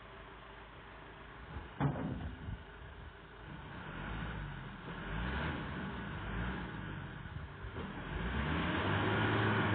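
Vehicle engine revving under load, its pitch rising and falling, then holding higher and louder near the end. A single sharp knock about two seconds in is the loudest moment.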